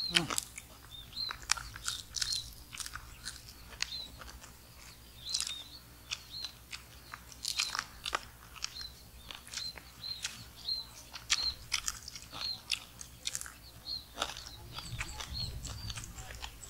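Crunching and chewing of crispy dry-fried catfish eaten by hand with rice, many sharp irregular crunches. A short high chirp repeats about once a second behind it.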